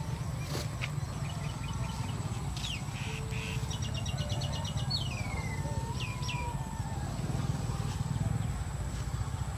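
Small birds chirping over a steady low rumble. In the middle there is a fast, even trill, then a falling whistle and a few short quick notes.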